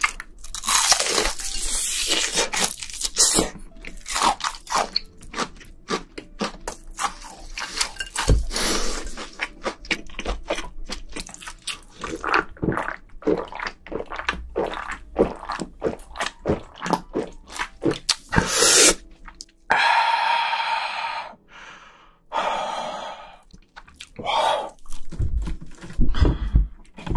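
Close-up crunching and chewing of crisp fried shrimp (tempura), many quick crackling bites in a row. About two-thirds through there is a hissier stretch lasting a couple of seconds before the crunching resumes.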